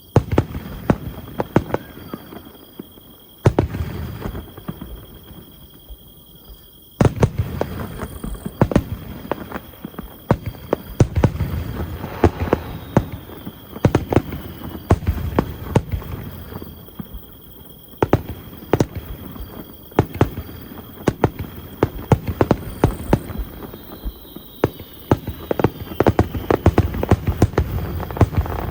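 Festival fireworks: aerial shells bursting with sharp bangs and deep rumbling booms, thick with rapid crackles. They come in dense clusters, with a brief lull about five seconds in before the bursts pick up again about seven seconds in.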